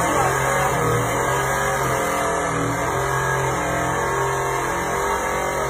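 Car engine revving hard and held at high revs under load while pushing a stalled car, its pitch holding and then stepping up and down.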